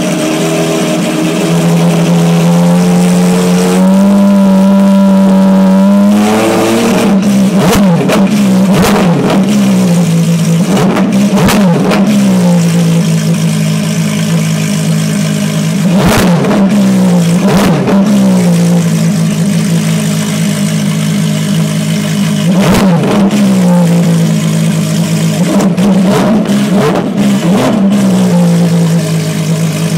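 Ferrari FXX race car's V12 engine, very loud, idling with revs held up briefly near the start, then blipped hard again and again: a quick burst of blips a third of the way in, single stabs around the middle, and another burst near the end, each dropping back to idle.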